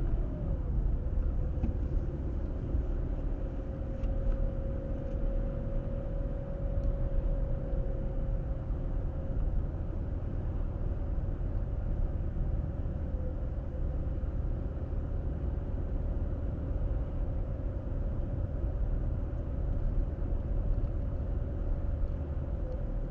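Car driving at a steady speed: a low road and tyre rumble with a steady engine hum, whose pitch dips briefly near the start.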